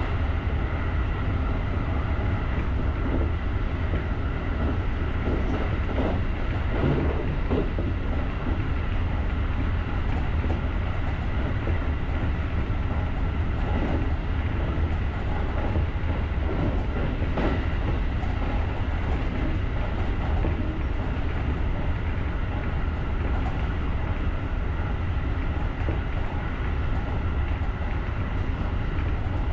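Electric commuter train running along the track, heard from the driver's cab: a steady rumble with several steady tones over it and a few wheel clicks over rail joints.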